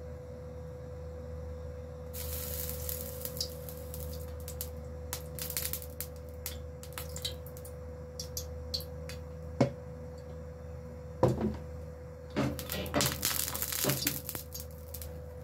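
Cooking oil poured from a plastic jug into a heated nonstick frying pan, hissing with many small ticks and crackles as it meets the hot metal. The ticks come thicker and louder near the end as the pan is tilted to spread the oil. A steady low hum runs underneath.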